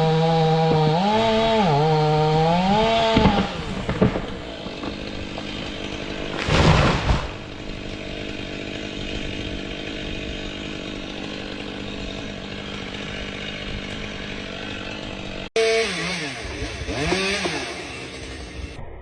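Two-stroke chainsaw running at high revs under cutting load, its pitch dipping and climbing, then dropping away about three seconds in. A brief loud burst of noise follows a few seconds later, then a lower steady running sound. Near the end an abrupt cut brings in another chainsaw revving up and down.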